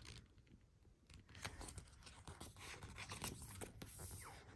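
Faint rustling and scratching of paper pages being handled and turned in a sticker book, mostly after the first second.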